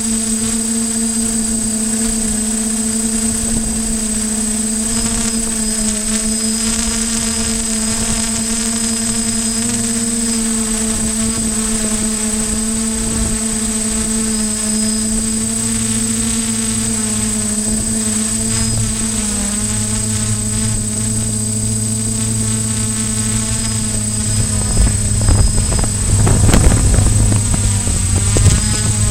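Quadcopter's electric motors and propellers running with a steady hum of several tones, the pitch wavering slightly as the motors adjust. In the last few seconds gusts of wind buffet the microphone in a loud, uneven rumble.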